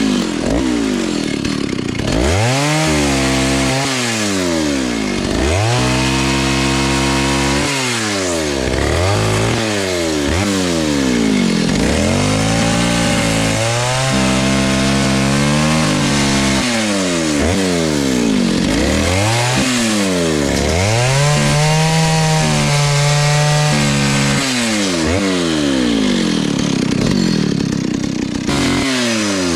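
Vintage Stihl S-10 56cc two-stroke chainsaw cutting wood, its engine note repeatedly dropping and climbing back as it pulls down in the cut and revs up again. About three quarters of the way through it holds a steady lower note for a few seconds.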